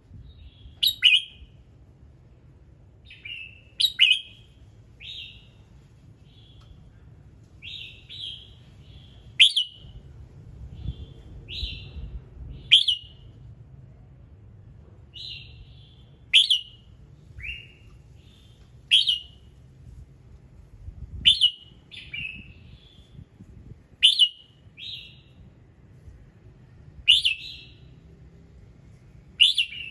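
Red-whiskered bulbul singing: short whistled phrases, each starting with a sharp note, repeated every one to three seconds over a faint low hum.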